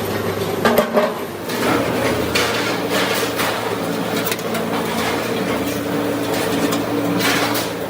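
Factory machinery running with a steady hum, broken by frequent irregular knocks and clanks of metal being worked.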